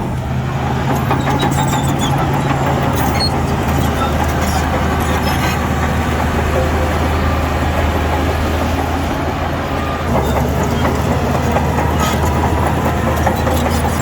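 Heavy diesel earthmoving machinery running steadily under load, a deep engine hum with scattered metallic clanks; the engine note shifts about four seconds in.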